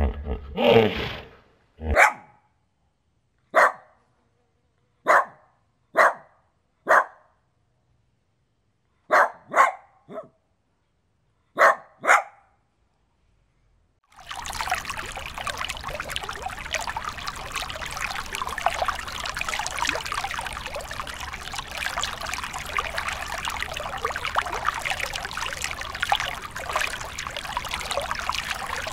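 About a dozen short, sharp animal calls, some single and some in quick pairs. After a short pause about halfway through, a steady hiss of running water begins.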